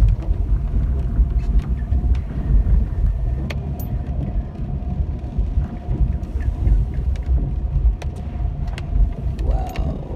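Car driving, heard from inside the cabin: a steady low road and engine rumble with a faint steady whine, and scattered sharp clicks and snaps as the tyres run over twigs and small branches strewn on the road.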